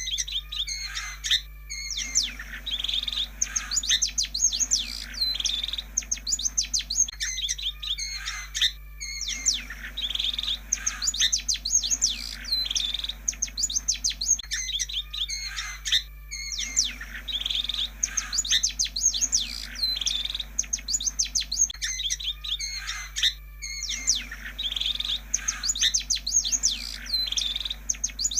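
Long-tailed shrike (pentet) song played as a lure recording to set off a shrike that has gone quiet: bursts of rapid chirps and whistles repeating in the same pattern about every seven seconds with short breaks between, over a steady low hum.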